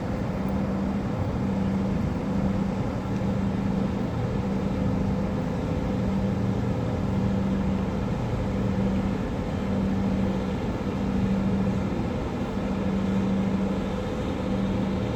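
Steady low engine rumble, with a low hum that pulses on and off about once a second.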